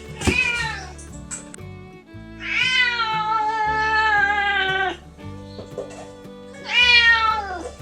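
Domestic cat meowing three times: a short falling meow, then a long drawn-out meow of about two and a half seconds, then another falling meow near the end, over background music.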